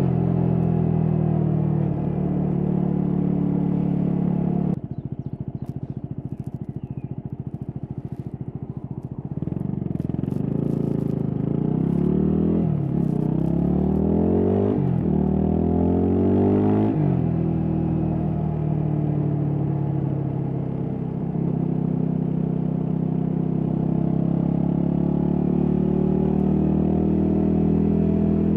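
Yamaha WR250X's single-cylinder four-stroke engine on the move. About five seconds in, it drops off the throttle to a lower, rougher run. It then accelerates with rising pitch through three quick upshifts and settles into a steady cruise that slowly climbs in pitch.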